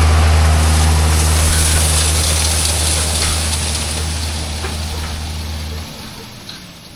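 Farm tractor engine running steadily with a deep low hum, slowly getting quieter; the low drone cuts off about six seconds in, leaving a fainter background noise.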